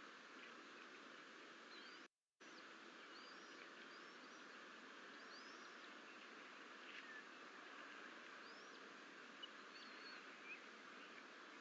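Faint outdoor ambience: a steady low hiss with scattered short, high bird chirps. The sound cuts out completely for about half a second around two seconds in.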